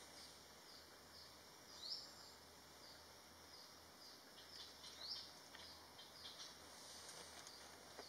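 Faint high chirps of small birds in the forest, short repeated notes with a couple of slightly louder rising calls about two and five seconds in.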